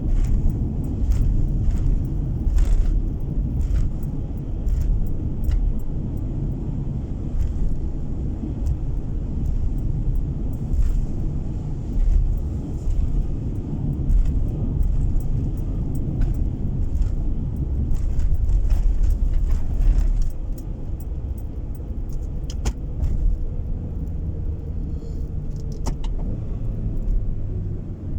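Car driving, heard from inside the cabin: a steady low road and engine rumble with scattered light clicks and rattles. Near the end a faint hum falls in pitch.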